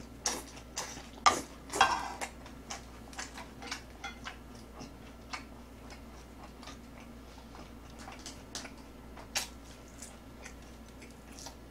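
Close-miked chewing of boneless fried chicken: irregular crunches and wet mouth clicks, a few louder ones in the first two seconds, then softer and sparser.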